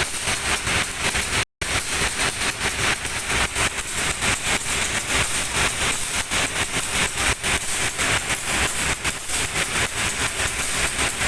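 Diesel-hauled train noise: a steady low engine hum under a dense stream of small clicks and rattles. A brief dropout in the sound comes about one and a half seconds in.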